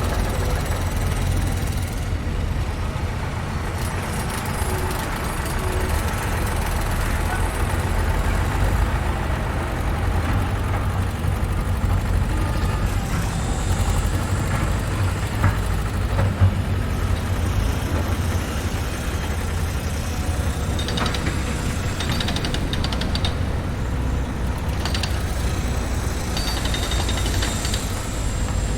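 Construction-site machinery and trucks with heavy engines running steadily, a deep continuous rumble. Two sharp knocks come a little past the middle, and light rattling follows near the end.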